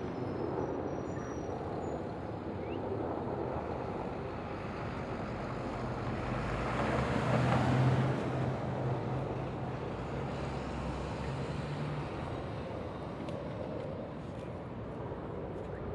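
Metro light rail train moving through the station: a steady rumble with a motor hum that swells to its loudest about halfway through, then fades.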